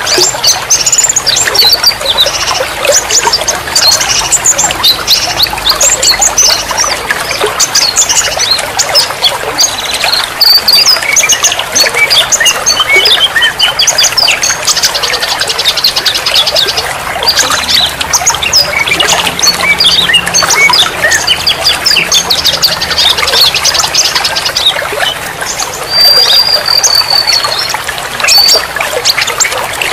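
A dense mix of songbirds chirping and trilling rapidly over the steady trickle of running water, with one longer held whistle near the end.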